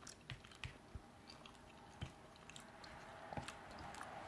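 Faint chewing of a mouthful of beef pot pie, with soft, wet mouth clicks scattered throughout.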